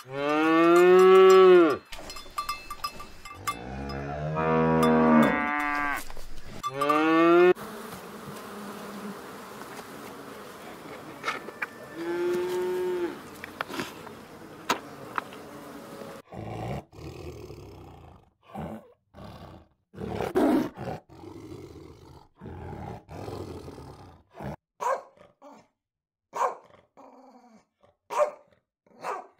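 Cows mooing: three long, loud calls, each rising and then falling in pitch, over the first seven seconds. A Highland calf follows with one shorter, fainter moo. The second half holds a string of short, separate sounds.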